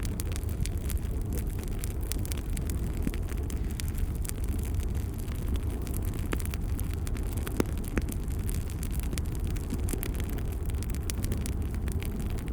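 Wood fire crackling in a fireplace: a steady low rumble of flames with frequent small snaps and pops, two sharper pops about seven and a half and eight seconds in.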